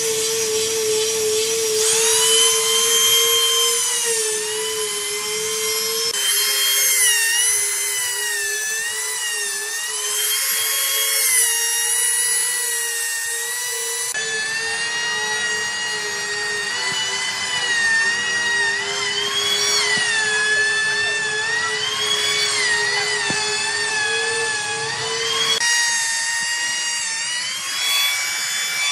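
Electric power tool running on wood, its motor whine dipping and recovering in pitch as it loads up in the cut, in several spliced stretches that change abruptly a few times.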